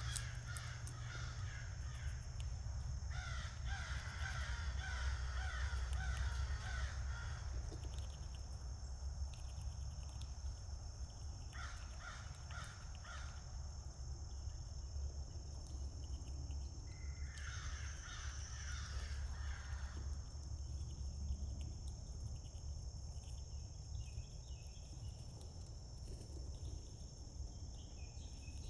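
Birds calling outdoors in four bursts of rapid, harsh, repeated calls, the longest running about four seconds, over a steady high insect drone.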